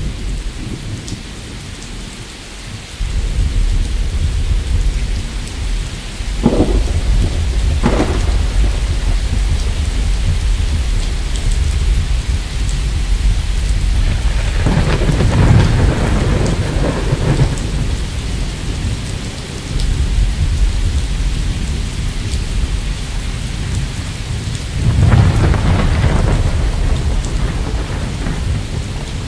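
Thunderstorm: steady rain with a continuous low rumble of thunder. There are two short cracks about six and eight seconds in, and longer, louder peals of thunder in the middle and again near the end.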